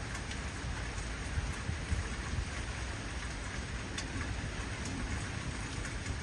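Heavy rain falling steadily, with the hiss of the downpour and a few sharper drop ticks, over a continuous low rumble.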